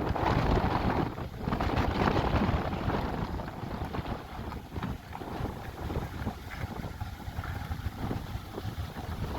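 Gusty wind buffeting the microphone, a rumbling noise that swells and dips every second or so.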